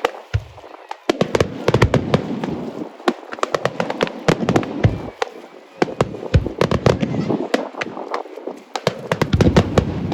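Aerial fireworks going off in quick succession: many sharp bangs and crackles close together, with a few brief lulls.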